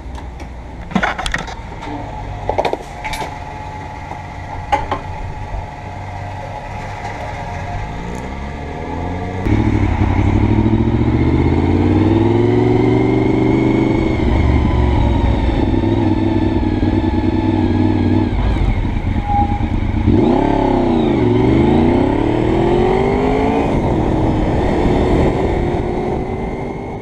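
Honda VFR V4 motorcycle engine heard from a helmet camera. For the first nine seconds or so it runs at low speed, with a few sharp clicks. Then it opens up and revs up through the gears, its pitch climbing, dropping at each shift and climbing again.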